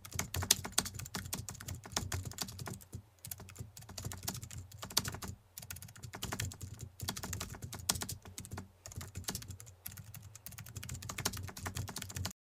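Rapid, irregular clicking in runs with short pauses, cutting off suddenly near the end.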